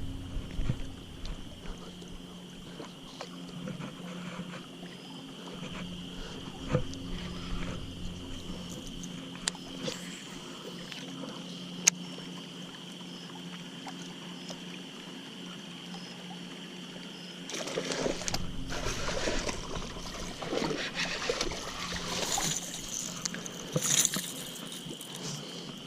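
Outdoor pond ambience: a steady insect drone with scattered sharp clicks. About two-thirds of the way in, several seconds of louder water and handling noise come and go.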